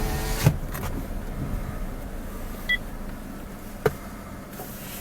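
Car running with a steady low rumble. There is a sharp click about half a second in, a short high beep past the middle, and another click near the end.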